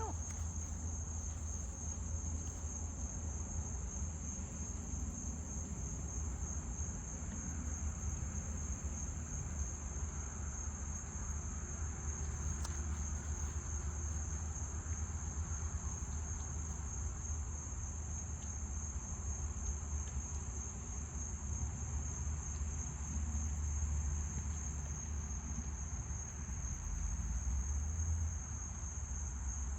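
Insects trilling in a steady, high-pitched chorus that does not pause, over a low steady rumble.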